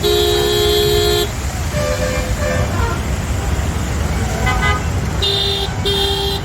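Highway traffic with vehicle horns: one long horn blast at the start, then two short toots near the end, over the steady low rumble of passing engines.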